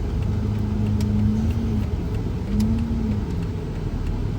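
Car driving, heard from inside the cabin: a steady low rumble of engine and road noise, with a humming note that comes in twice, first for about a second and a half and again briefly after the middle.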